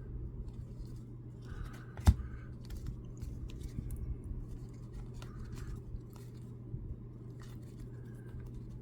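Topps baseball cards being handled and flipped through, giving light rustling and card-on-card scraping. There is one sharp click about two seconds in, over a steady low hum.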